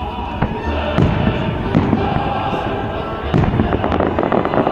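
Fireworks going off: a string of sharp bangs about every second, with dense crackling from the bursting shells building up in the second half.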